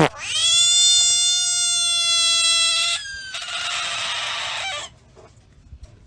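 An animal's loud, high-pitched call, held steady for about two and a half seconds, followed by a shorter, harsher call.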